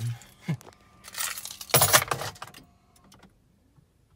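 Rustling and clattering handling noise as someone settles into a car's driver's seat, in a few quick bursts loudest about two seconds in, then quiet.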